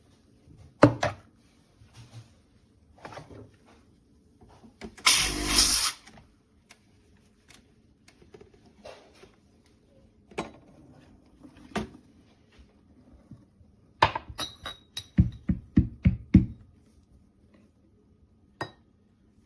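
Clicks, knocks and clinks from handling parts of an espresso machine. There is a brief hiss about five seconds in and a quick run of about six knocks near the end.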